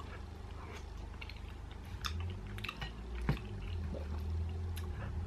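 Person chewing a mouthful of macaroni cheese, with a few light clicks of a metal fork scooping in the food tray.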